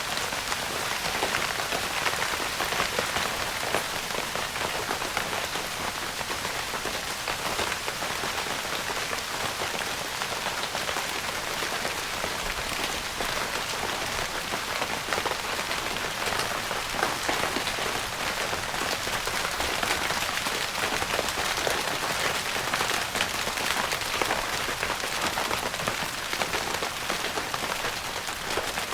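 Steady rain pattering on a tent's fabric, a dense even hiss of many small drop taps.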